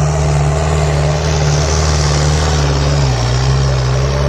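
Tractor diesel engine running hard under heavy load, pulling in a tractor tug-of-war; its steady low note dips slightly about three seconds in.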